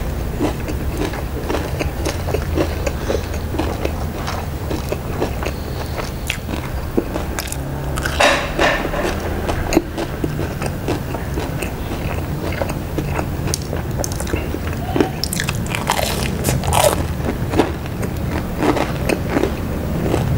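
Close-up crunching and chewing of crispy deep-fried tofu (tahu garing): a run of crisp crackles as the puffy fried crust is bitten and chewed, with louder crunches about eight seconds in and again around sixteen seconds.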